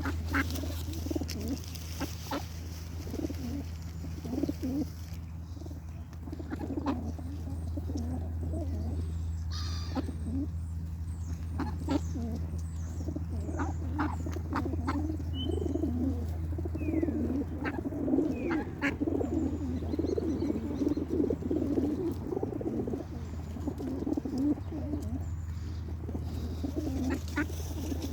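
Birds calling continuously, mostly low warbling calls with a few short higher chirps and clicks, over a steady low hum.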